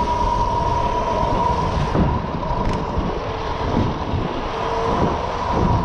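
Mini bike engine running steadily during an off-road ride, with a steady whine over it and wind buffeting the microphone.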